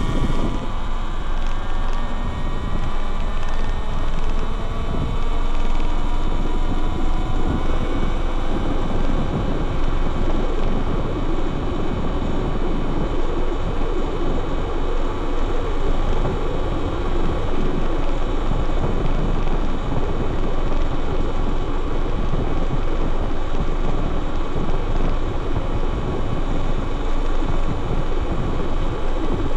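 Wind rushing and rumbling over the handlebar-mounted microphone of a Talaria Sting R MX4 electric dirt bike riding at speed. The electric motor's whine rises in pitch during the first couple of seconds as the bike accelerates, then the wind noise holds steady.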